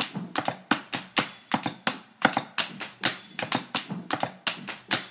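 Typewriter keystrokes clacking in quick, uneven runs, with a short high ring about every two seconds, three times in all.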